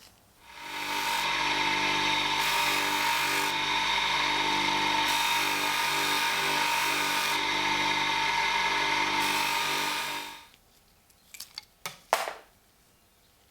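A workshop power tool spins up, runs steadily for about ten seconds with a rubbing, abrasive hiss that comes and goes as the work is pressed against it, then winds down. A few sharp clicks follow near the end.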